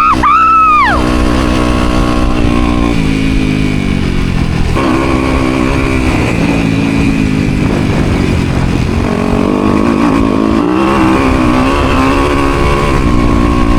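Motocross bike engine on the track, pitch rising and falling with the throttle, with a quick rev in the first second and a drop in pitch at about three seconds and again near five.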